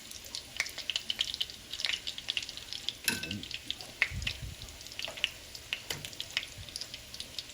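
Sardine-and-tuna fritters frying in hot oil: a steady sizzle dotted with many small crackling pops, and a soft low knock about four seconds in.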